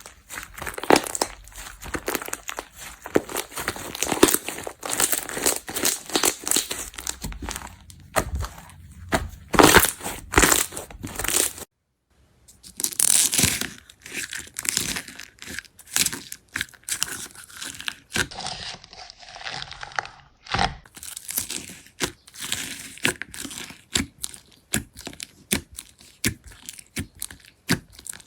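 Slime being worked by hand, with a dense run of crackling, popping and sticky tearing sounds. It cuts off about twelve seconds in, then resumes in a new clip.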